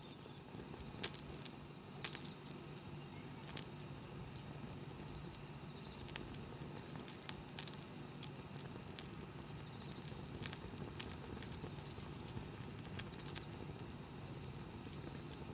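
Wood campfire crackling, with scattered sharp pops over a steady low hiss. A faint high insect trill comes and goes in the background.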